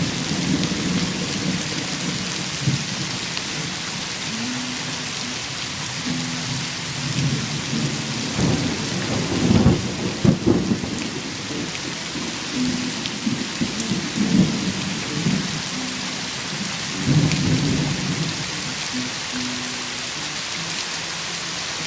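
Heavy rain falling steadily with thunder rumbling, the rumble swelling several times and loudest about ten seconds in.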